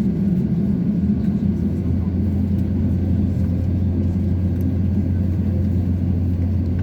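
Steady low rumble of an Airbus A350-900's engines and airframe heard from inside the cabin, with a constant low drone settling in about a second in.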